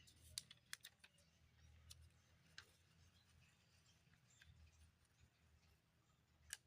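Near silence with a low background hum, broken by a few faint, sharp clicks, the clearest just before the end.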